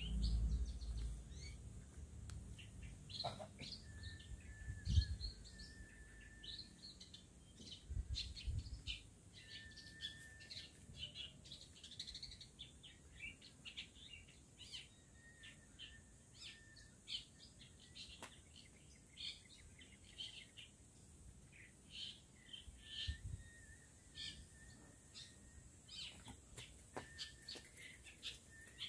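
Wild long-tailed shrike (cendet) singing: a steady run of short chirps and twitters, broken by a few level whistled notes held about a second each, over a faint steady high hiss. A low thump about five seconds in is the loudest moment.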